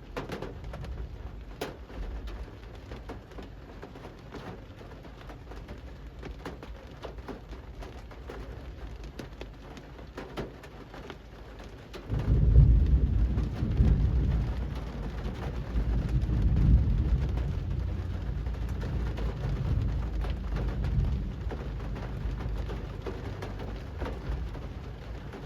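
Steady rain falling on a street, with many small drop ticks. About halfway through, a deep low rumble comes in suddenly, swells for a few seconds and keeps going under the rain.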